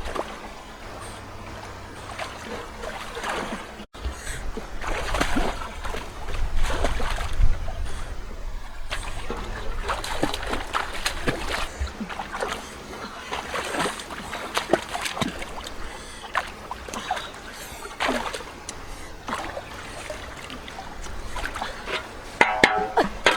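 River water splashing and sloshing irregularly, in uneven bursts.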